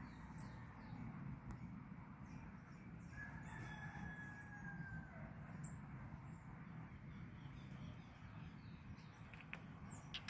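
One faint, drawn-out bird call, starting about three seconds in and lasting about two seconds, over low rumbling background noise and small high chirps.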